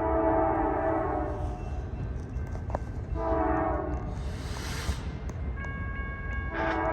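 Norfolk Southern diesel locomotive's Nathan K5LA horn sounding several blasts, a chord of steady tones starting and stopping, over the low rumble of the train.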